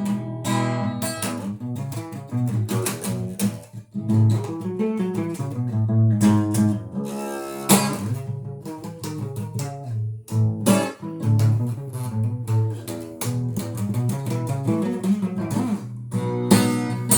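Guitar playing an instrumental break, a run of picked and strummed chords.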